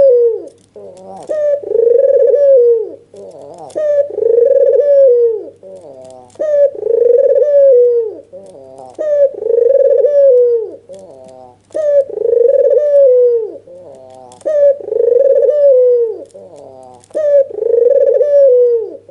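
White, red-eyed (albino) ringneck dove giving its bowing coo over and over. A new phrase comes about every two and a half to three seconds. Each phrase opens with a few short notes and ends in a long, low, rolling coo.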